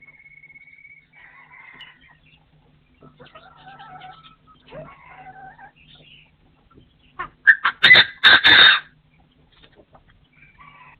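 Partridge calling: faint whistles and chirps, then a loud, harsh run of calls lasting about a second and a half, starting about seven and a half seconds in.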